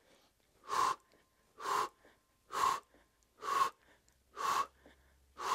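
A man breathing out in sharp, short puffs, six of them at about one a second, in time with repetitions of a resistance-tubing leg exercise.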